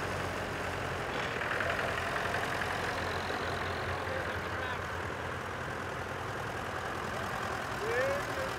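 Vintage tractor engine idling steadily, with a brief voice near the end.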